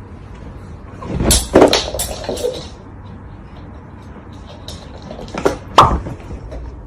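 A few sharp knocks and clatters in two groups, one about a second in and another near the end, over a steady low hum.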